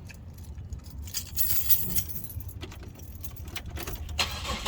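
Car keys jangling on their ring, with scattered light clicks, as the ignition key is handled before a cold start.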